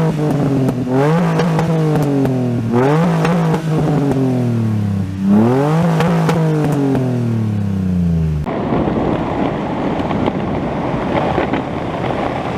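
A car engine revved repeatedly, four quick throttle blips about two seconds apart, the revs falling away slowly after each. It then cuts suddenly to a rough, steady engine rumble.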